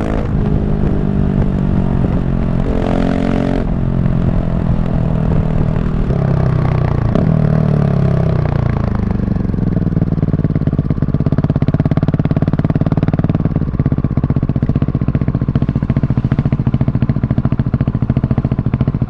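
KTM 690 SMC R's big single-cylinder engine through its loud exhaust, running under way, then falling in pitch as the bike slows about six to nine seconds in, and settling into a lumpy idle with a rapid even pulse. A brief hiss sounds about three seconds in.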